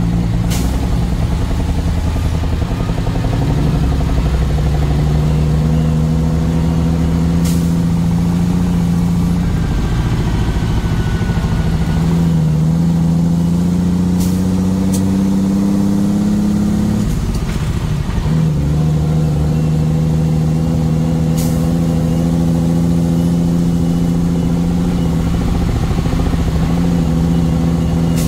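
A vehicle's engine running under way, its pitch climbing slowly as it accelerates, then dropping with a gear change about seventeen seconds in before running steady again. A few sharp clicks are heard over it.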